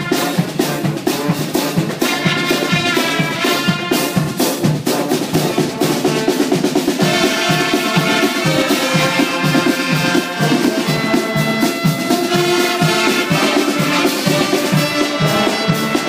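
Music played by brass instruments, trumpet and trombone, over a drum kit with a steady beat.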